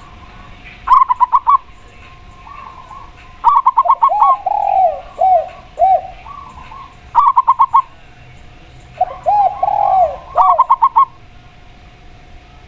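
Spotted dove and zebra dove cooing in turn. Four quick bursts of short, rapid notes alternate with lower, longer coos that rise and fall.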